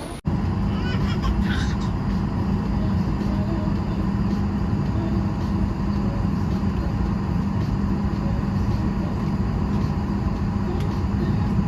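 Steady airliner cabin noise: the even drone of the engines and air with a low, steady hum.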